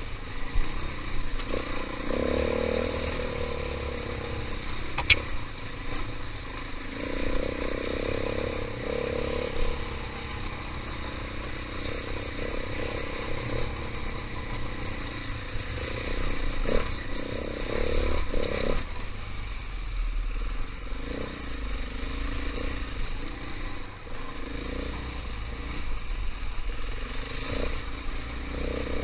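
KTM 500 EXC single-cylinder four-stroke dirt bike being ridden on a rough trail, its engine rising and falling with the throttle several times. Sharp knocks and rattles from the bike over rough ground come through, one especially sharp about five seconds in.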